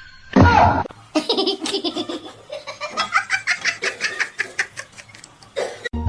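Laughter: a short falling squeal about half a second in, then a long run of quick ha-ha bursts that fades out near the end.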